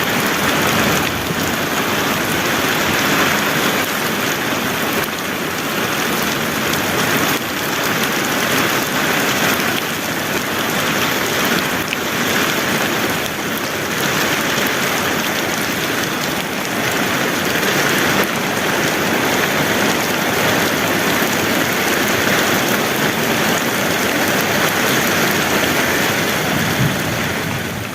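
Heavy rain falling steadily: a loud, even hiss that doesn't let up, dropping away at the very end.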